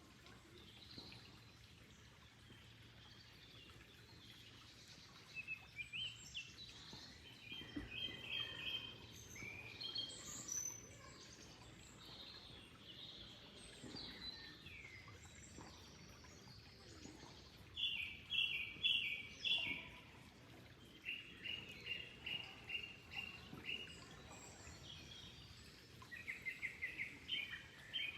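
Songbirds singing: several phrases of quick repeated chirps, about five notes a second, over a faint steady background hiss.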